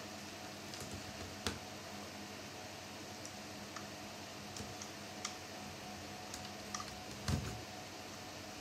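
Scattered light clicks and taps from handling an HP 250 G3 laptop and its parts during disassembly, with a sharp click about a second and a half in and the loudest knock near the end, over a steady low hum.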